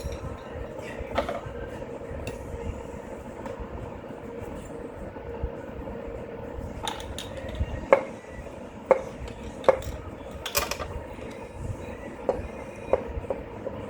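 Metal hand tools clinking and knocking against metal engine parts during engine-bay work, as sharp separate clinks about a second apart from about halfway through, over a steady faint hum.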